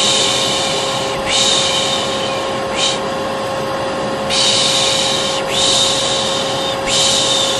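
A person shushing 'shh, shh' in long strokes of about a second each, with one brief stroke and a short pause about three seconds in. Underneath is the steady hum of a running vacuum cleaner.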